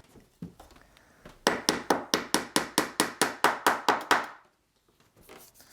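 A hammer tapping a small nail into the wooden frame: about fifteen quick, light, evenly spaced taps, roughly five a second, that stop just after four seconds in.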